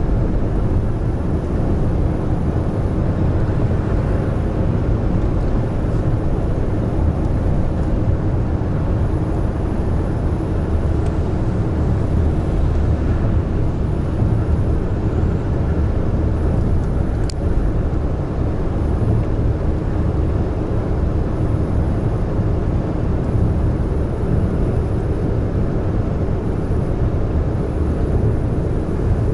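Heavy truck cruising at steady speed on an expressway: a low, steady drone of diesel engine and tyre-on-road noise. There is a faint brief click about two-thirds of the way through.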